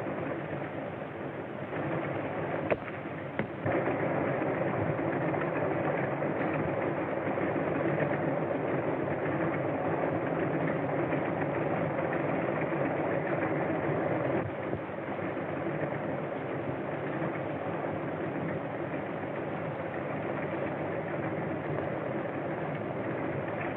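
An engine running steadily, with a few clicks about three seconds in. It gets louder just after that and eases a little about midway, heard on an old, narrow-band film soundtrack.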